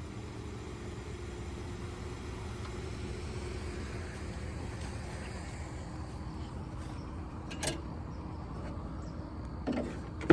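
Chevrolet Silverado 1500 pickup engine idling steadily just after being cranked into life, with a single click about three-quarters of the way through.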